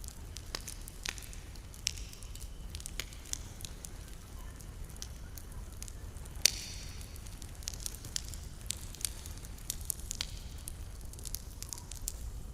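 Campfire crackling, with irregular sharp pops and snaps, the loudest about six and a half seconds in, over a low steady rumble.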